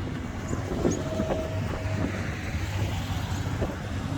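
Classic cars driving slowly past in a procession, a steady low engine rumble.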